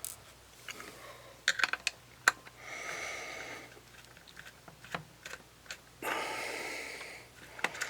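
Light clicks and taps of small tools on a plastic DSLR camera body during disassembly, several sharp ticks scattered through, with two longer breaths about two and a half and six seconds in.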